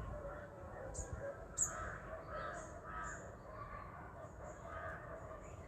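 Birds calling: a series of short, repeated calls, several in a row.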